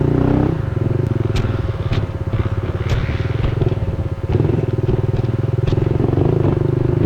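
Honda CRF110F pit bike's small four-stroke single-cylinder engine running under throttle on a rough trail, with a few sharp knocks as the bike clatters over roots. The throttle eases off briefly about four seconds in, then picks back up.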